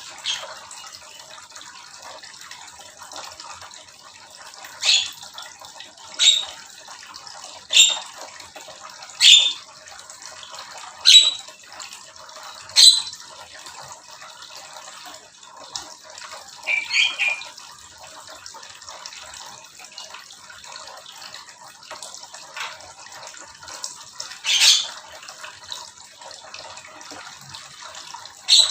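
Small aviary birds giving sharp, loud single calls about every one to two seconds, then a quick three-note burst and one more call later, over a steady rushing hiss like running water.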